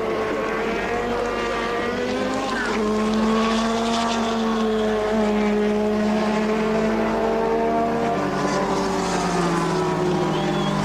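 Several turbocharged Formula One engines running together at low revs, their overlapping steady tones at different pitches shifting slightly as individual engines are blipped.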